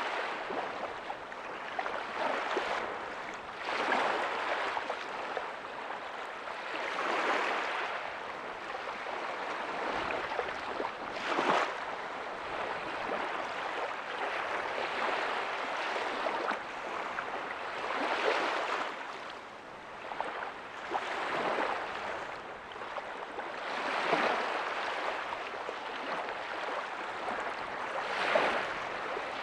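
Ocean waves breaking softly on a beach: a continuous wash of surf that swells every few seconds as each wave comes in.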